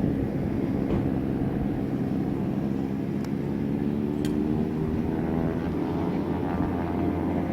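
Light propeller airplane's piston engine running steadily, its tone rising in pitch from about five seconds in.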